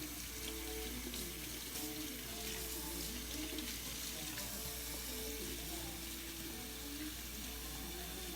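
Tap water running steadily into a sink, a continuous even rush.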